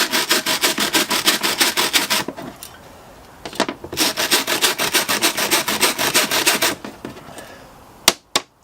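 Rapid back-and-forth scrubbing of a chainsaw's clogged air filter, about six strokes a second, in two spells with a pause of about a second between them. A couple of sharp clicks come near the end.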